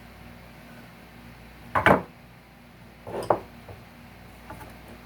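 Two sharp clattering knocks of hand tools and wood being handled, the first the loudest, then a couple of faint ticks. This is work pulling nails and staples out of salvaged couch lumber.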